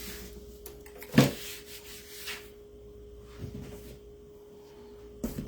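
Craft supplies being handled and moved about on a tabletop: rubbing and shuffling, with one sharp knock about a second in and another near the end. A faint steady hum runs underneath.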